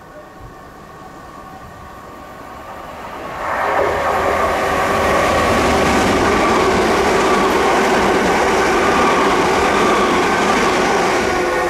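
Electric multiple-unit passenger train running through a station at speed: a quieter approaching rumble builds, then about three and a half seconds in the train reaches the microphone and its loud, steady rush of wheels and running gear continues as the coaches go past.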